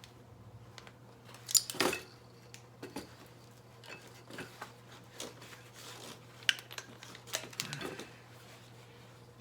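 Scattered small clicks and metal knocks of parts and tools being handled while working on a motorcycle's carburettor cables, with the loudest clatter about one and a half seconds in. A steady low hum runs underneath.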